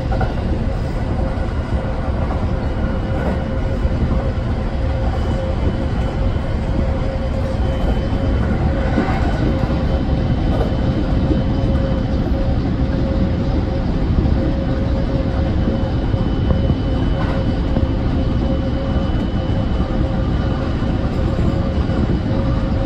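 Kintetsu electric train running along the track, heard from inside the front car: a steady rumble of wheels on rail with a steady hum over it.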